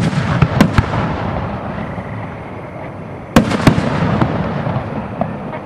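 Aerial firework shells bursting: a loud bang at the start and another about three and a half seconds in, each followed by a few smaller cracks and a rumbling echo that dies away.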